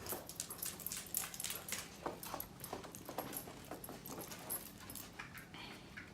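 Dog whimpering softly, with scattered light clicks and taps.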